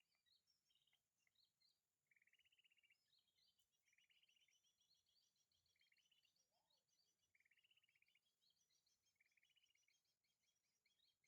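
Faint calls of sogon birds (the small sunbirds known as sogok ontong): short, rapid trilled chirps repeated every second or two, with thinner high chirps in between.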